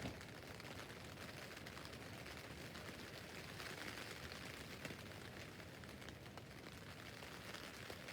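Steady rain pattering on a tent roof, a constant hiss dotted with many small drop ticks.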